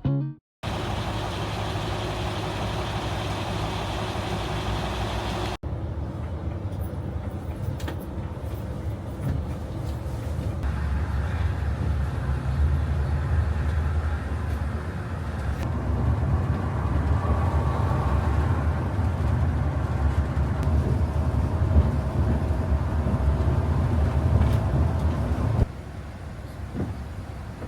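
Road vehicle engine and traffic noise, a steady low rumble, in several short clips joined by abrupt cuts, with a quieter stretch near the end.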